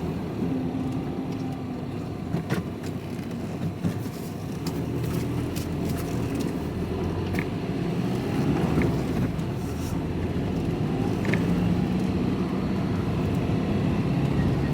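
Van engine running and road noise heard from inside the cab during a slow manoeuvre. The engine note shifts up and down, with a few light knocks.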